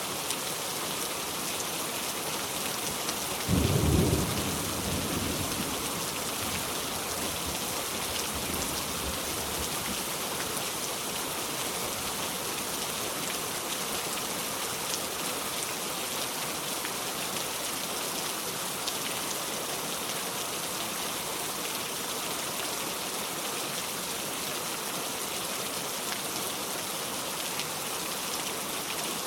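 Steady rain falling, with one low rumble of thunder about three and a half seconds in that fades away over a couple of seconds.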